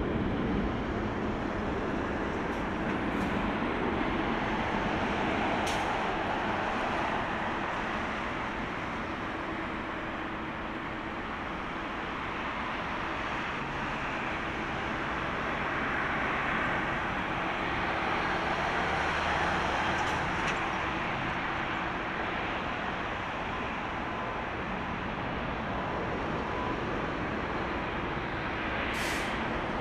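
Jet engine noise of a Boeing 777-300ER's GE90 turbofans during landing: a steady rush that slowly swells and eases, with a few faint steady tones in it.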